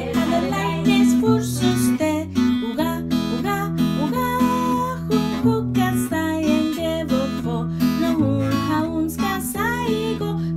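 Acoustic guitar strummed, a steady run of chords that change about once a second.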